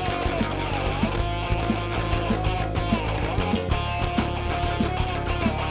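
Live rock band playing an instrumental passage of a pop-punk song: electric guitars carrying a melody over a steady drum beat and bass.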